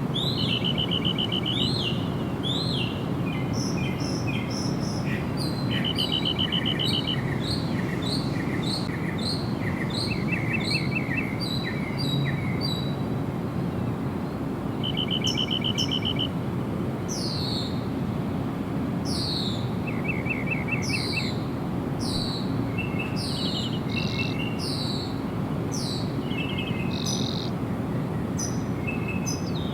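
Several wild birds singing and calling: rapid trills, repeated chirps and, in the second half, a run of high notes each sweeping sharply downward. A steady low background noise runs underneath.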